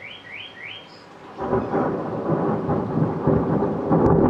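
A thunderclap breaks in suddenly about a second and a half in and goes on as a loud, rolling rumble with crackles to the end. Before it, a few short rising chirps sound faintly.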